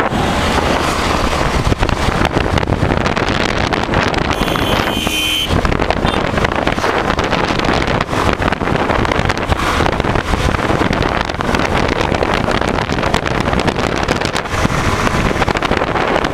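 Heavy wind rushing over the microphone of a moving Hero Honda Karizma motorcycle, with its engine and road noise underneath. A brief high-pitched tone sounds about four and a half seconds in.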